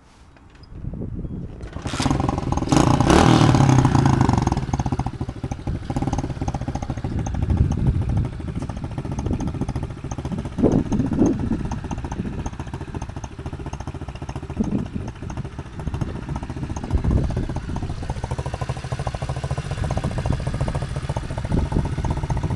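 110cc single-cylinder four-stroke pit bike engine starting up about two seconds in and revving, then running at a steady idle with a few short throttle blips. The engine runs smoothly, in line with a motor that has been serviced and has no problems.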